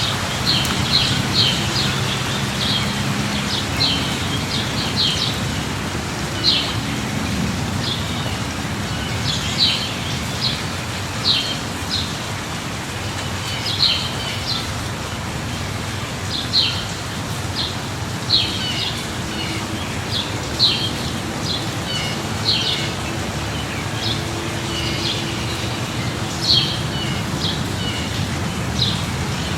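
Steady light rain, with a bird giving short, high chirps every second or two.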